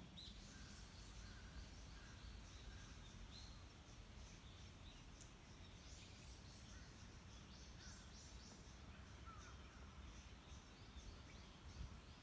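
Faint, scattered bird calls: short high chirps repeating throughout over a low background rumble.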